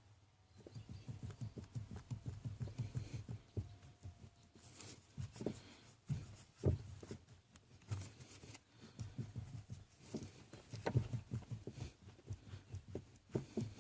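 Knocking in the steering column of a 2012 Toyota Tacoma: quick runs of short, low knocks broken by brief pauses, the fault the owner is showing.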